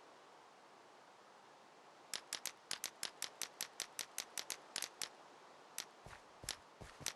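A rapid run of sharp clicks, about five a second, starting about two seconds in over a faint steady hiss, then slowing to a few irregular clicks mixed with dull low knocks near the end.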